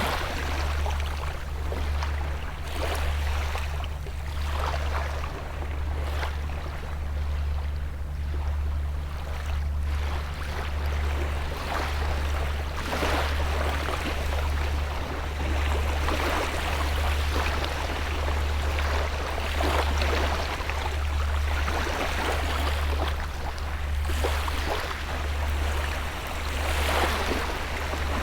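Small sea waves washing and breaking on the shore, a hissing surge every two to three seconds, over a steady low rumble that pulses slightly.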